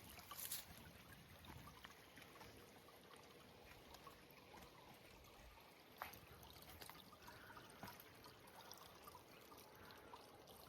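Faint trickling of water, with a few light ticks: a sharp one just after the start and another about six seconds in.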